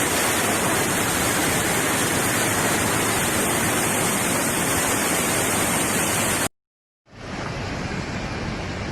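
Steady rushing roar of storm wind and rain on the microphone. It cuts off abruptly about six and a half seconds in, and after a brief silence a similar, slightly quieter roar starts.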